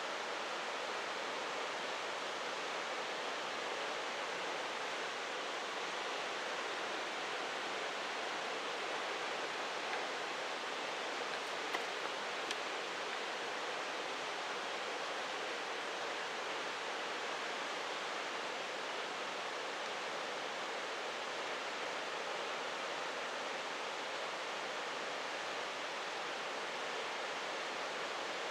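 Steady rushing of a mountain creek, an even hiss with no change throughout, with a couple of faint clicks about twelve seconds in.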